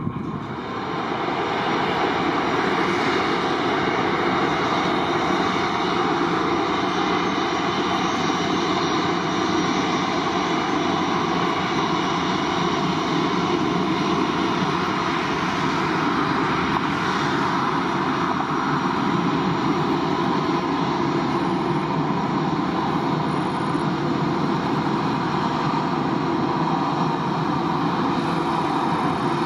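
Aircraft engines running steadily: a continuous loud rush with a few faint steady tones over it, holding level throughout.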